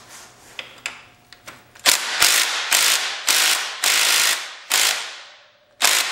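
Ratchet wrench loosening a 12 mm front brake caliper mounting bolt: after a couple of faint clicks, a run of about seven quick ratcheting strokes begins about two seconds in, each a burst of pawl clicks that starts sharply and fades.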